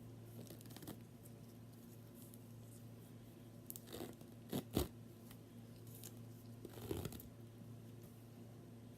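Faint handling noises: a few short scrapes and knocks, the loudest pair about halfway through and another near seven seconds, over a low steady hum.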